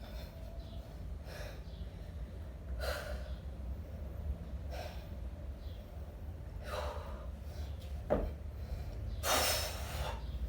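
Hard, forceful breathing of a kettlebell-sport lifter working a 20 kg bell in one-arm long cycle: five sharp gasping breaths about two seconds apart, in time with the reps. A single sharp knock comes about eight seconds in, over a steady low rumble.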